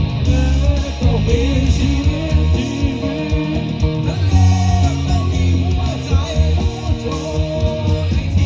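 A band playing a rock song with a singer, guitar and heavy bass; the vocal line carries on through.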